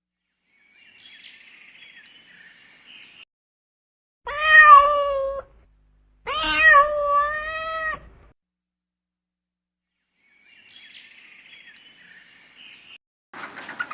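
Domestic cat meowing twice, each meow a second or more long, with faint higher-pitched noise before and after.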